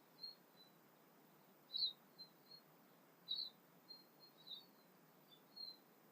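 A songbird giving a string of short, high chirping notes, about a dozen in all, the loudest about two and three and a half seconds in, over a faint background hiss.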